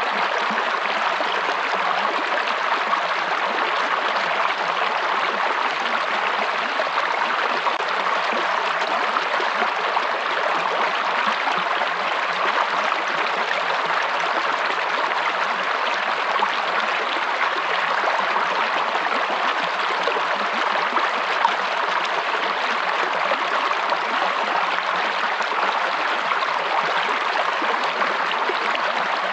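Running water of a stream, a steady, even rush with no breaks or distinct splashes.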